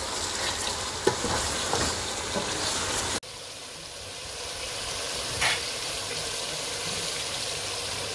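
Chicken and curry masala sizzling as they fry on high heat in an aluminium pot (the bhuna stage of the curry), stirred with a wooden spoon that scrapes and knocks against the pot a few times in the first couple of seconds. The sound cuts out for an instant about three seconds in, then the steady sizzle carries on.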